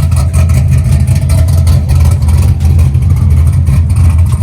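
Car engine exhaust rumbling loudly and deep, with a steady fast pulse, as a car pulls off.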